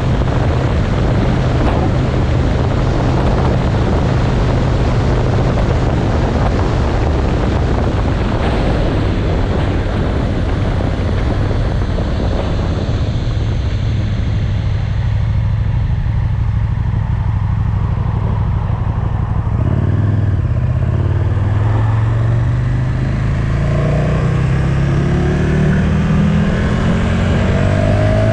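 Motorcycle engine running under way with heavy wind rush. The wind noise dies down in the middle, then about two-thirds through the engine note rises steadily as the bike accelerates.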